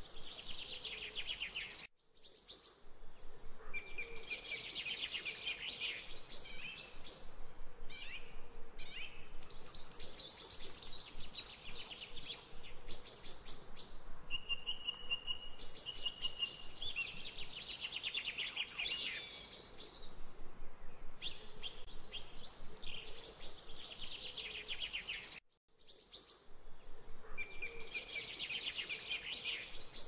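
Birds singing in rapid, repeated phrases with short pauses between them, over a faint steady hiss. The sound cuts out briefly twice, about two seconds in and again about three quarters of the way through.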